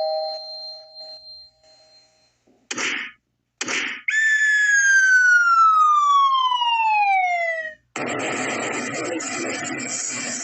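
A ringing ding fades out, then come two short whooshes and a long falling whistle tone that slides steadily down in pitch for nearly four seconds. About eight seconds in, steady car road and engine noise cuts in suddenly.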